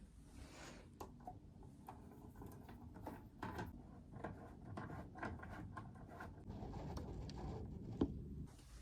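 Household objects being handled during cleaning: a steady run of small clicks, taps and rustling, with one sharper knock near the end.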